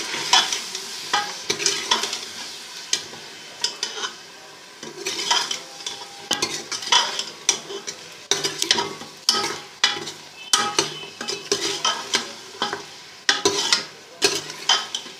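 A spoon stirring mutton frying with ground spices in a pot: a steady sizzle with irregular clicks and scrapes of the spoon against the pot.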